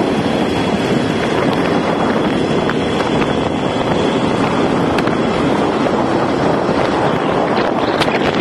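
Steady rush of wind on the microphone over the running motorcycle and road noise while riding.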